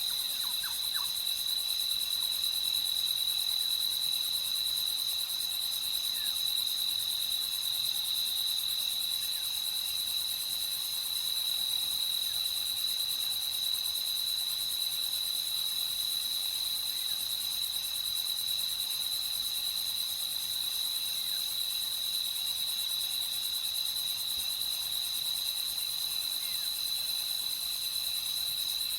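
Night insects, most likely crickets, chirring in a steady, unbroken high chorus, with a softer high hiss above it.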